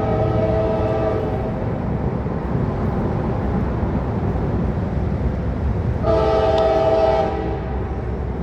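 Freight locomotive horn on a CSX CW44AH sounding a chord over the low rumble of the train. A long blast cuts off about a second in, and a shorter blast comes about six seconds in.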